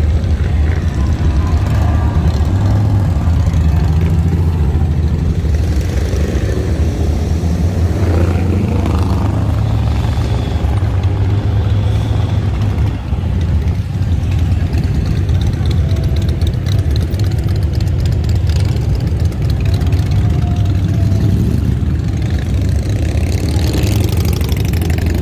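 Loud, steady low rumble of motorcycle engines running close by.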